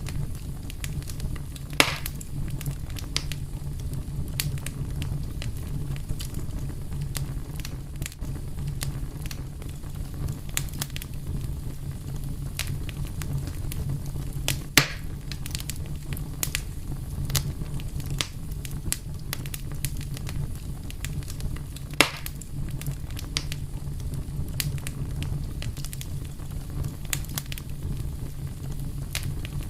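Fire crackling over a steady low rumble, with frequent small pops and three louder snaps about two, fifteen and twenty-two seconds in.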